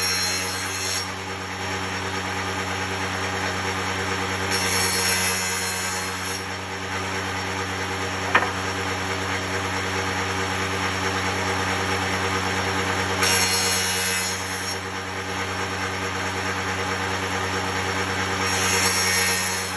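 Woodworking machine running with a steady motor hum, cutting into wood in short passes of a second or two, four times. There is one sharp click about eight seconds in.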